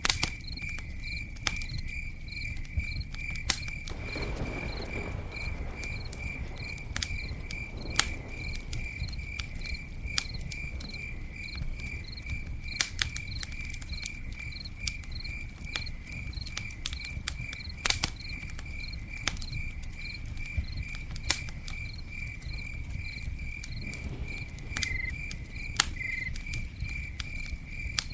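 Campfire burning with a low steady rumble and scattered sharp crackles and pops, a few louder pops standing out. A cricket chirps steadily throughout, a few evenly spaced chirps a second.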